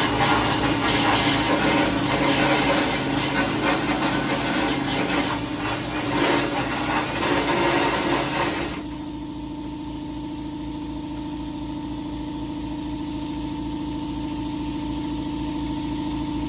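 Power-tool wire wheel scrubbing weld burn-off from sheet steel: a harsh, even scratching that stops abruptly about nine seconds in. A steady low hum with a faint regular pulse carries on underneath and is left alone after the wheel stops.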